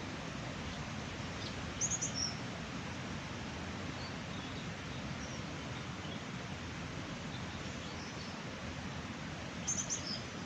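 Small birds chirping in two short quick bursts of high notes, about two seconds in and again near the end, with a few faint chirps between, over a steady, even background rush.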